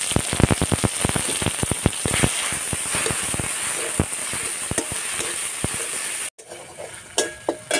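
Cumin paste dropped into hot mustard oil in a metal kadai: loud sizzling with rapid crackling pops over the first few seconds, settling into a steady sizzle as it is stirred with a metal spatula. The sizzle cuts off abruptly about six seconds in, leaving a few faint clinks of the spatula on the pan.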